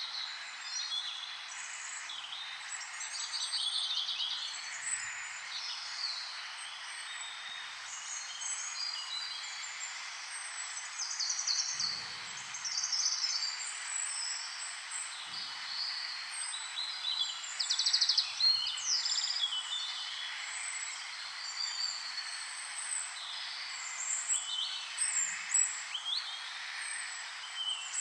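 Several small birds chirping and trilling over one another in quick, overlapping calls, over a steady background hiss.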